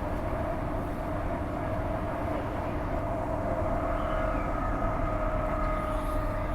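Transperth A-series electric multiple unit running along the line, heard from inside the front car: a steady rumble of wheels on rails under a steady whine. A second, higher whine comes in about halfway through.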